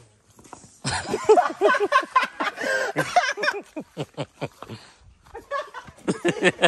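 A man laughing in quick, repeated bursts from about a second in, then a few clicks, and more laughter and voice near the end.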